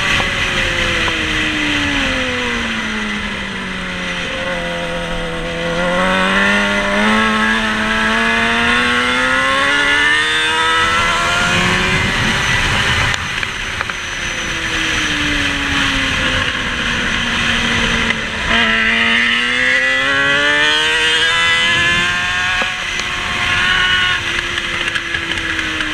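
Racing motorcycle engine heard from onboard: the revs fall for about five seconds as it slows, then climb in steps through the gears under hard acceleration. It slows again through the middle, and from about eighteen seconds it pulls hard once more.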